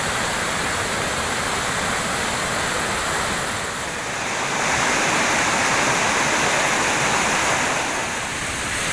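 Waterfall pouring, a steady dense rush of falling water, swelling slightly louder about halfway through.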